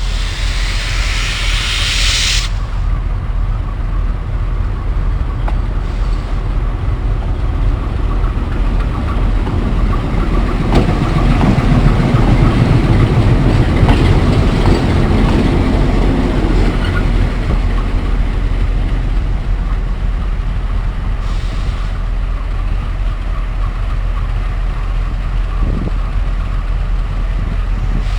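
Moving passenger train running on the rails: a steady rumble with wheel-on-rail noise, growing louder for a few seconds midway.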